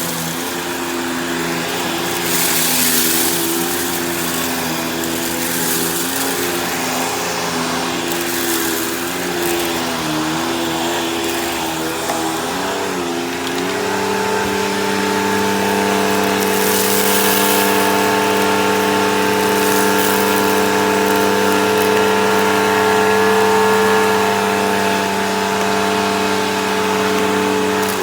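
Bissell CleanView Helix Deluxe upright vacuum cleaner running with a steady motor hum. About thirteen seconds in, the pitch wavers and then settles higher and a little louder, and two swells of rushing air come about three and seventeen seconds in.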